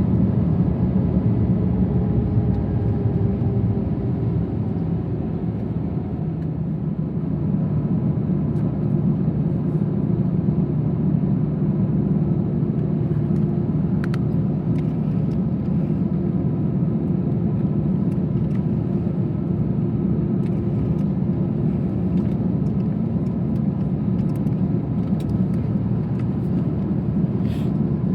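Steady low rumble of a Delta Airbus A321's engines and airflow heard inside the passenger cabin, with a faint steady hum and a few light ticks from the cabin.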